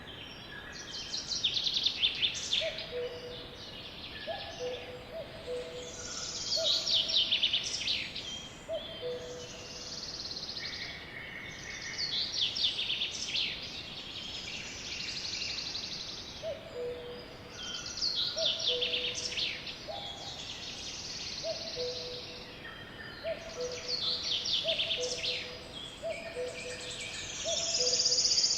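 Songbirds singing in repeated bursts of fast, high trills and chirps every second or two. Under them, a second bird gives a low two-note hooting call over and over, a higher note followed by a lower one.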